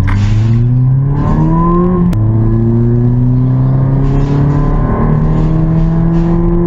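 Car engine accelerating through an automatic transmission. The pitch climbs for about two seconds, then drops abruptly with a click as it shifts up, and then climbs slowly again.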